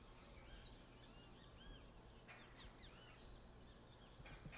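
Faint chorus of birds chirping: many short arched and falling calls overlapping over a steady background hiss, with two brief bursts of hiss about halfway and near the end.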